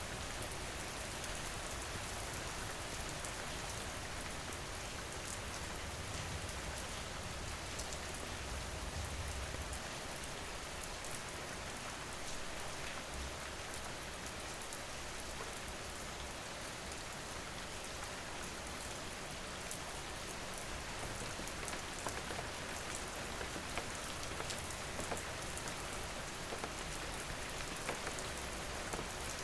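Steady rain falling: an even hiss with scattered drop patters, and a low rumble underneath during roughly the first third.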